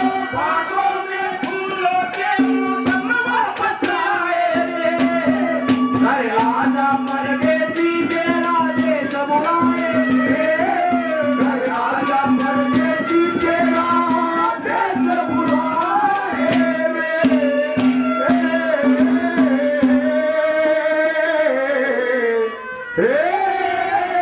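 Haryanvi ragni folk music: tabla strokes under a wavering melody line, with a low held note that keeps breaking off and coming back. The music drops out briefly near the end, then resumes.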